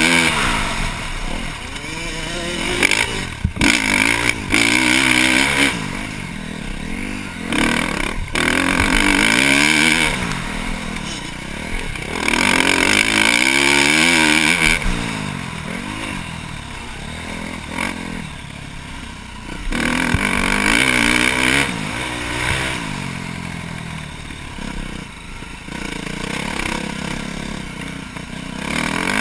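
KTM 350 SX-F single-cylinder four-stroke motocross engine with a Yoshimura exhaust, revving hard and backing off over and over as the bike is ridden round the track. Its pitch climbs and falls through the gears, with a couple of sharp throttle chops.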